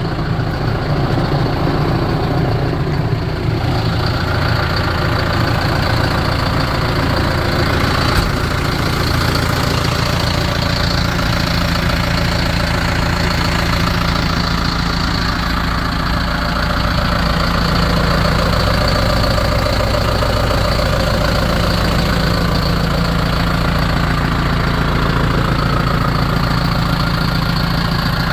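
John Deere 6420 tractor's diesel engine running steadily at idle.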